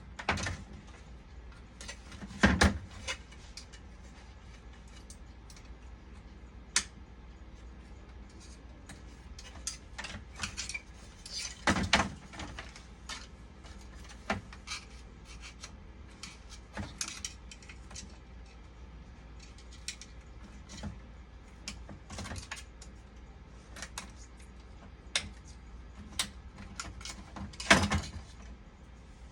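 Small hand tools and metal parts being handled during repair work: scattered clicks and light metallic clatter, with three louder clatters spread through, over a steady low hum.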